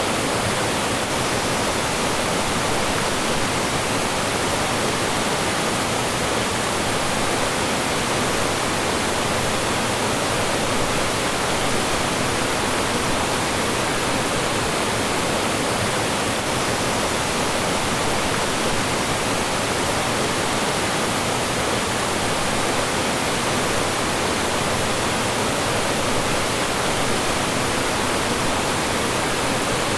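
Mountain stream rushing and falling over rocks, a steady full water noise with no change in level.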